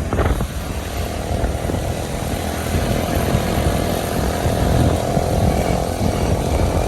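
Small two-wheeler engine running steadily while riding, with wind buffeting the microphone. The engine's tone comes through more clearly from about a second and a half in.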